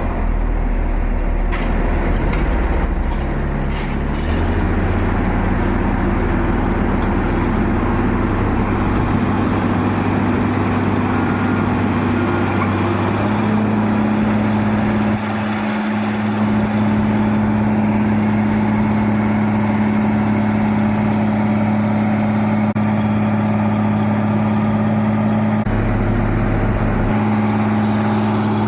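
A steady, loud engine drone that holds one tone and then jumps abruptly to a new pitch a few times, about 4, 13 and 26 seconds in.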